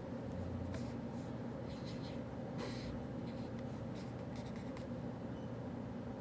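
Writing by hand on paper, short irregular scratching strokes, over a steady low hum.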